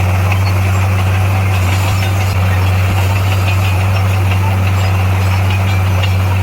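Heavy earthmoving machine's diesel engine running steadily with a deep, even hum.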